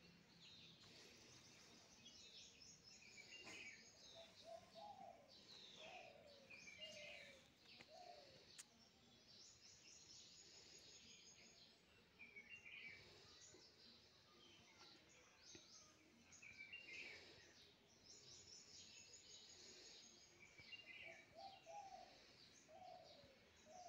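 Faint birdsong: several birds chirping and calling over and over. Twice, a lower run of short notes joins in.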